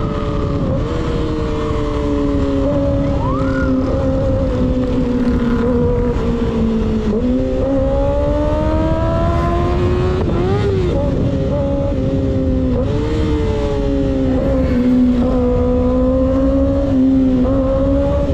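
Motorcycle engine and exhaust at speed, held at a steady pitch, climbing under acceleration for a few seconds and dropping sharply about ten seconds in as it shifts up, over a constant rumble of wind and road noise.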